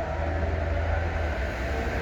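A vehicle running close by: a steady low rumble with a constant hum over it.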